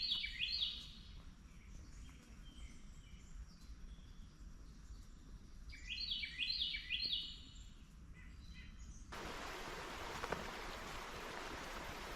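A songbird sings two short phrases of quick rising notes, about six seconds apart. About three-quarters of the way through, a steady rush of flowing creek water cuts in abruptly.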